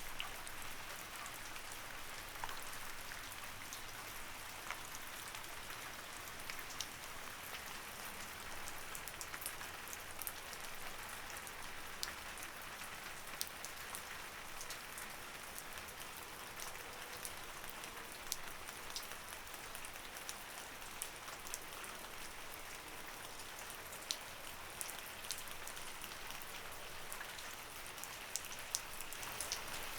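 Light rain falling steadily: an even hiss with scattered individual drops ticking sharply on a surface.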